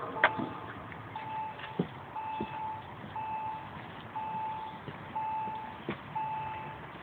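Saab 9-5's warning chime beeping steadily about once a second after the engine stops, each beep a short single tone. A sharp click near the start is the loudest sound, with a few fainter clicks later.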